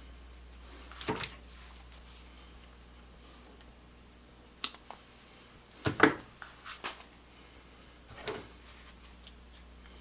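Hands working with small hand tools and wire: a handful of short clicks and rustles, several in quick succession about six seconds in, over a faint steady hum.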